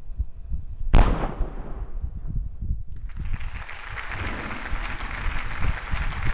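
A homemade black-powder firecracker going off: one sharp, loud bang about a second in, fading over about a second. A steady hiss starts about two seconds later.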